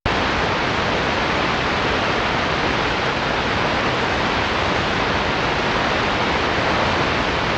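Steady radio static hiss from an RTL-SDR airband receiver with no voice on the frequency, cutting in abruptly at the start.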